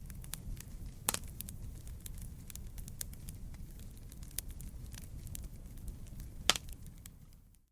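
Wood campfire burning: a steady low rumble of flames with frequent small crackles, and two sharp pops, about a second in and near the end.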